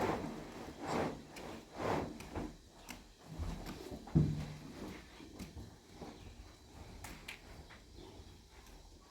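Handling and scraping noises, about one stroke a second, then a single sharp thump about four seconds in, followed by a few faint knocks.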